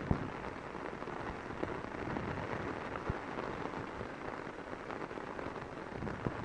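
Torrential rain pounding on an umbrella: a dense, steady hiss of downpour with scattered sharper drop hits on the canopy.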